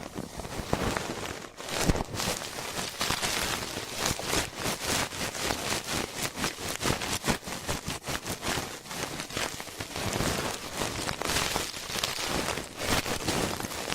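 Close-miked ear-cleaning ASMR sounds: rapid, continuous scratching and crackling, many small rubs and clicks following one another.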